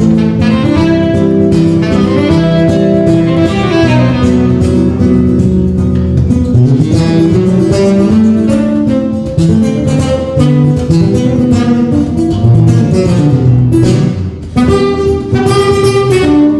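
Live instrumental music from a trio, with plucked guitar to the fore, playing continuously with a brief dip in loudness near the end.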